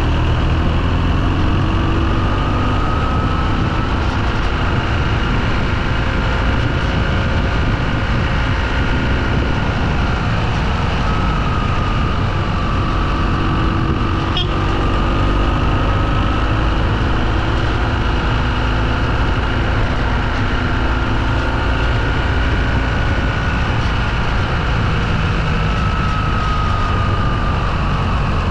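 Motorcycle engine running while riding, its pitch rising and falling gently with speed, under a steady low rumble. A brief click about halfway through.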